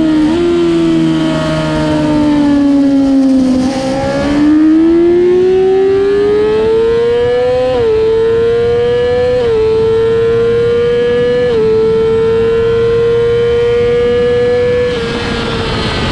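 Motorcycle engine on a fast track lap: the revs fall for about four seconds, then climb hard under acceleration through three quick upshifts, each a short dip in pitch, before the throttle eases off near the end.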